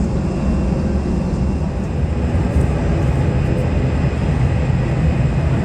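Jet airliner engines running: a steady, loud low rumble with faint high whining tones above it.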